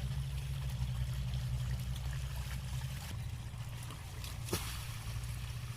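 An 8 hp diesel engine pump set running steadily with a fast, even throb, with water flowing. There is one short click about four and a half seconds in.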